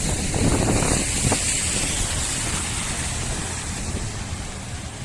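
Street traffic on a wet, flooded road, with wind buffeting the microphone; the rumble eases off slightly toward the end.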